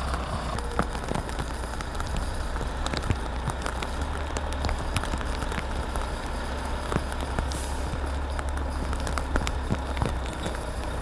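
Heavy truck diesel engine idling as a steady low rumble, with scattered light clicks and knocks.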